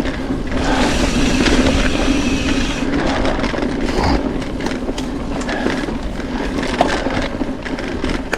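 Mountain bike rolling over a dirt forest trail: tyre crunch on the ground with frame and drivetrain rattling and small knocks. It is harsher and louder for about two seconds near the start.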